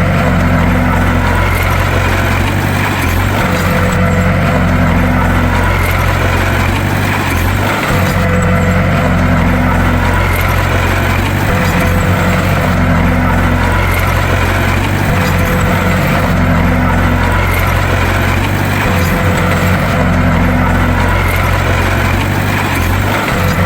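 Bulldozer's diesel engine running steadily with a deep drone. A slightly higher tone swells in and drops back at even intervals, about every four seconds.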